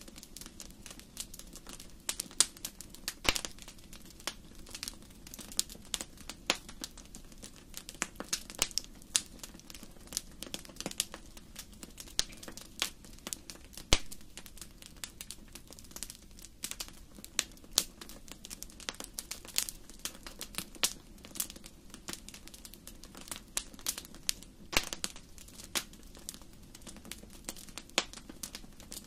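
Wood fire burning in a fireplace, crackling with many irregular sharp pops over a low steady hiss.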